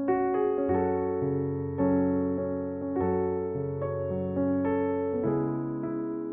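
Keyboard playing slow, sustained chords over bass notes, a new chord struck roughly every second.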